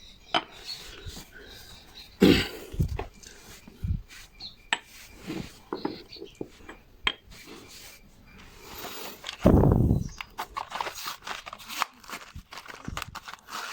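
Small starter motor parts being handled on a workbench: scattered clicks and light knocks, with louder rustling bursts about two seconds in and again near the ten-second mark.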